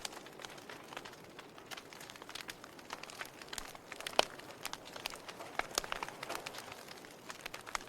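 Burning log fire crackling: irregular sharp pops and snaps over a soft hiss, with one louder pop about four seconds in.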